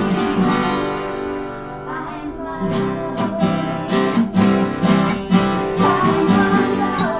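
Acoustic guitar strummed in a steady rhythm, easing off about two seconds in and then coming back in with harder strokes.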